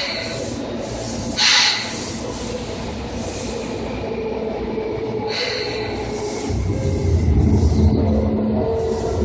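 Seibu 2000 series electric train running, heard from inside the motor car: steady rolling noise with two brief high-pitched bursts about a second and a half and five and a half seconds in, then a louder low rumble from about six and a half seconds in.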